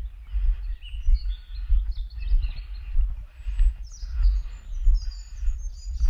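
Small songbirds chirping and trilling in short high calls over a steady walking rhythm of footsteps on a forest path, about two steps a second, with a low rumble on the microphone.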